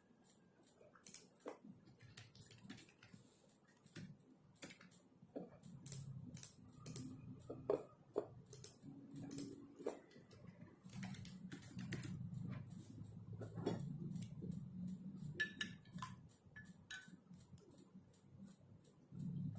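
Typing on a computer keyboard: irregular runs of key clicks with short pauses, over a low hum that comes and goes.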